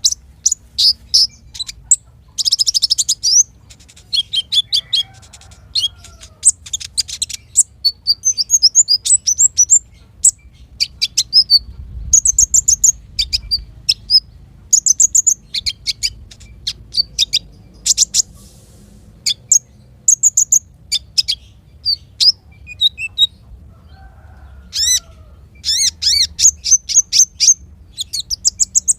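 Small songbirds singing in quick bursts of sharp, high chirps and short trills, with brief gaps between phrases.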